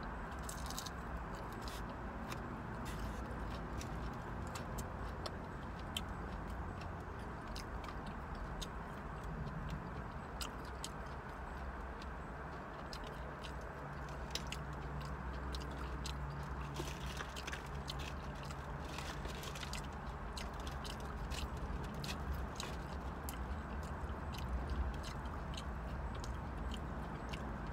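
A person chewing and biting fried seafood and fries, with many small mouth clicks scattered throughout, over a steady low hum.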